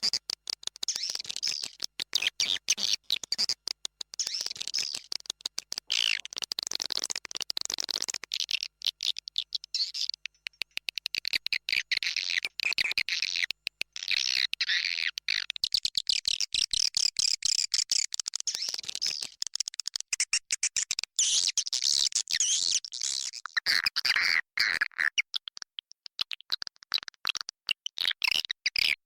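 A dense chorus of swiftlets twittering, with high chirps and many rapid clicks. This is a swiftlet-farming lure recording of the roosting call, used to draw swiftlets in to roost.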